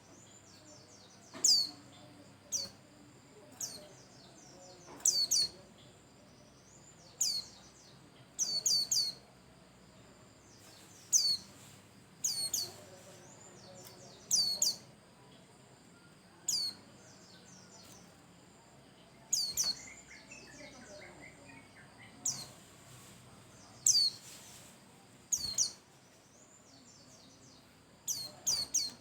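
White-eye calling: short, sharp, very high notes that drop steeply in pitch, given singly or in quick pairs and triplets every second or two.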